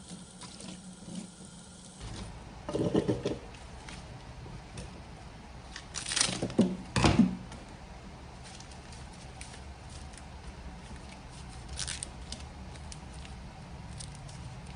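Kitchen items being handled and set down: scattered knocks and clatters, with the loudest pair about six to seven seconds in.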